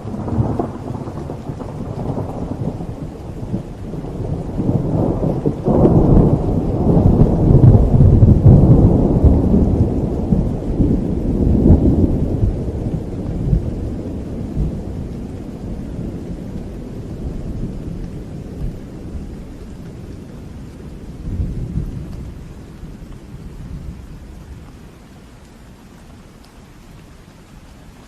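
A long peal of thunder over steady rain. It breaks suddenly at the start and swells loudest about six to twelve seconds in. It rumbles on with a smaller swell a little past twenty seconds, then dies away, leaving only the rain near the end.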